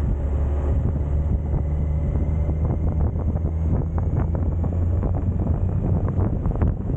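Suzuki GSX1250FA's inline-four engine running at a steady speed, with wind buffeting the microphone.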